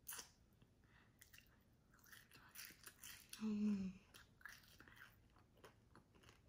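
A child chewing a homemade chewy Rice Krispies treat: faint, soft, irregular crunches. A short hummed "mmm" comes about three and a half seconds in.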